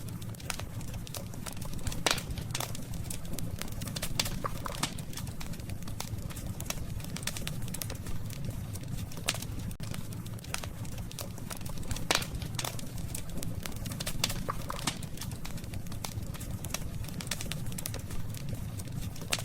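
Wood campfire crackling, with sharp pops scattered irregularly throughout, the loudest about two seconds in and again about twelve seconds in, over a steady low rumble.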